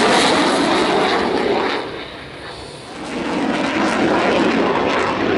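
Loud aircraft engine noise from a fixed-wing plane. It dips briefly about two seconds in, then rises back to full strength.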